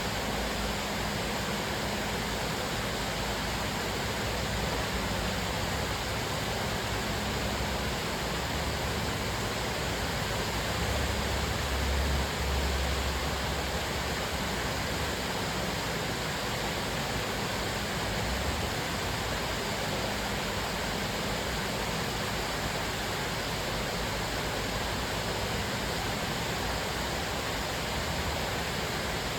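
Cascading waterfall: steady rushing and splashing of falling water, with a deeper low rumble swelling for a couple of seconds about twelve seconds in.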